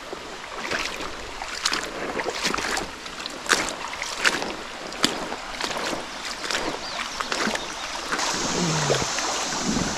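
Footsteps splashing and sloshing through shallow creek water, irregular strokes every half second or so, with the creek's running water growing louder near the end.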